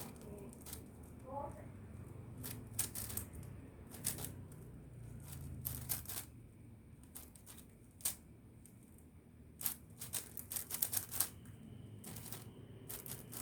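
Plastic clicking and clacking of a 5x5 puzzle cube being turned by hand, in irregular runs of quick turns with a burst of fast clicks near the end, over a steady low hum.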